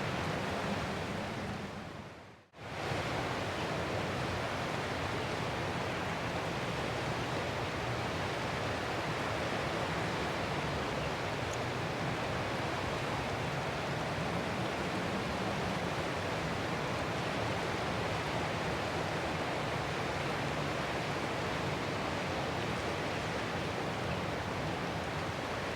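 Ocean surf as a continuous, even wash of waves. About two seconds in it fades almost to silence and comes straight back.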